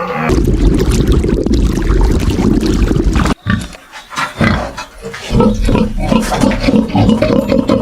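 A farm animal's rough, noisy grunting for about three seconds, cut off suddenly, then after a short pause a run of quick, repeated grunts.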